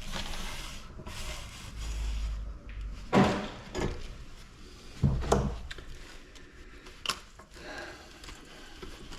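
Handling noise from parts of a scrapped light fixture being dismantled and moved: rubbing and scraping with several knocks of parts being bumped or set down, and a sharp click about seven seconds in.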